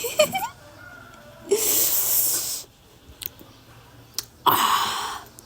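Someone slurping marrow and juice out of a buffalo bone, in two long rushy sucks, with small mouth clicks between them.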